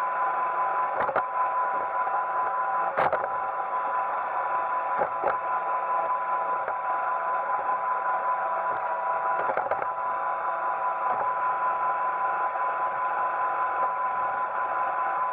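Roomba 880 robot vacuum running: a steady motor and brush noise with a constant whine, broken by a few short knocks, the loudest about three seconds in.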